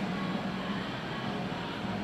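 KTM 1290 Super Duke R's big V-twin engine, fitted with an aftermarket Spark exhaust, idling steadily.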